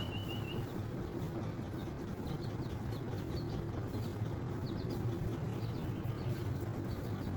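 A steady low rumble, with faint, short, high bird chirps scattered over it from about two seconds in.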